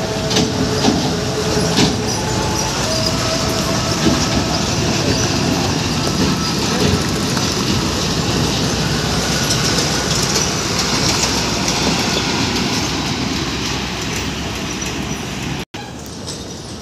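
Steady engine and road noise of a truck driving, with rattling and clatter. The sound drops out for an instant near the end and comes back a little quieter.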